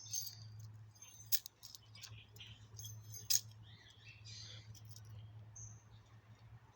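Metal chain clinking and jangling in several short, separate clinks as a kaka parrot plays with it, with a brief high peep near the end.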